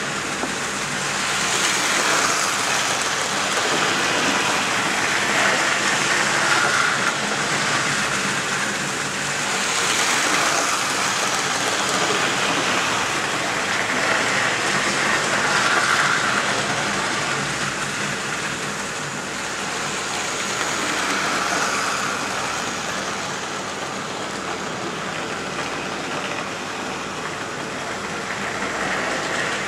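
A train running: a steady rushing noise that swells and eases every few seconds.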